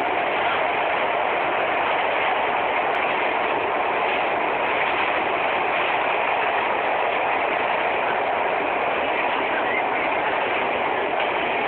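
Steady running noise of a moving train, an even rushing sound that holds level throughout with no clear clicks or changes.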